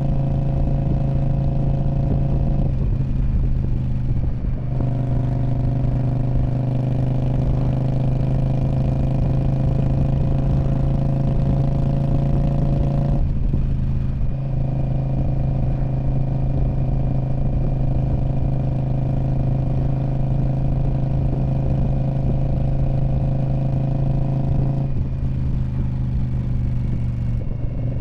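2019 Indian Scout Bobber's liquid-cooled V-twin running through a Freedom Performance Radical Radius aftermarket exhaust, holding a steady note at constant revs. The note breaks and changes three times, once early on, once around the middle and once near the end, before settling again.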